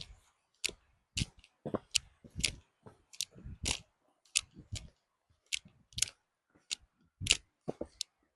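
Footsteps heard very close through a microphone clipped to a walker's boot: sharp, irregular steps and scuffs, about two a second.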